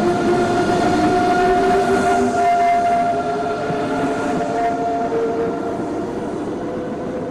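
A railway train running: steady tones over a rumbling noise, slowly getting quieter.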